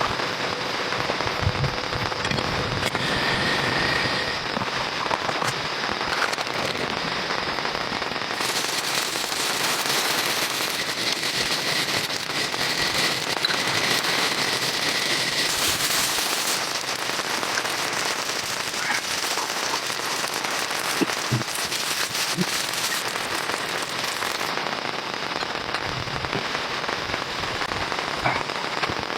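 Heavy rain falling, a dense patter of drops hitting a surface with many small crackling clicks, growing fuller and brighter for about fifteen seconds in the middle.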